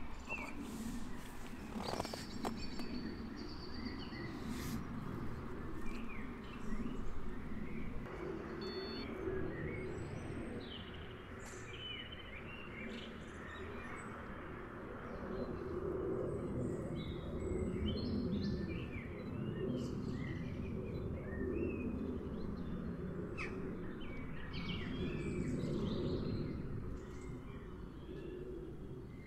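Birds chirping in short, scattered calls over a steady low outdoor background rumble.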